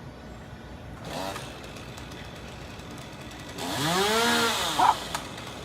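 Chainsaw engine revved briefly about a second in, then revved again for over a second, its pitch rising and falling, followed by a couple of sharp knocks near the end.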